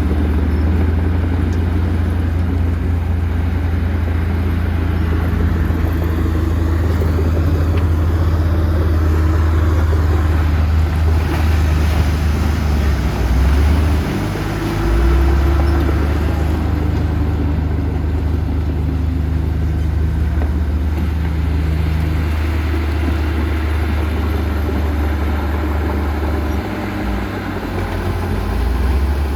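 Heavy diesel engine of earthmoving machinery running steadily with a deep low note. Its pitch and load shift briefly about halfway through and again near the end.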